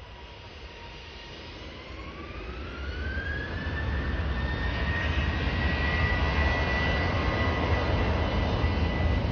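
Jet airliner's engines spooling up to takeoff thrust: a whine rises in pitch between about one and four seconds in, then holds steady. Under it, a rushing noise and a low rumble grow steadily louder.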